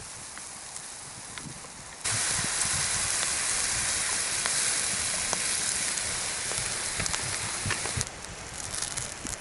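Food sizzling in a hot pan over a campfire, a steady hiss that jumps suddenly louder about two seconds in, then eases near the end with fire crackles.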